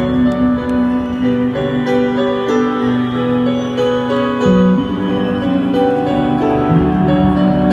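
Piano playing an instrumental passage: a held low bass note under changing chords, with a line of short notes above.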